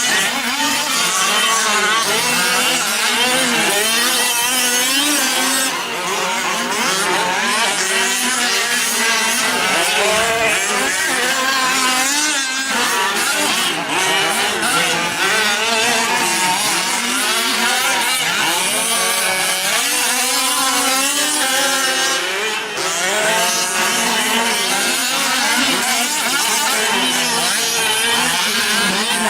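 Several 1/5-scale gas RC trucks' small two-stroke engines running together, their pitches constantly rising and falling as they rev up and back off.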